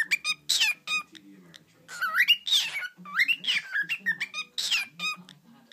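Cockatiel calling: about four loud, squawky whistled chirps that sweep up and down in pitch, roughly one a second.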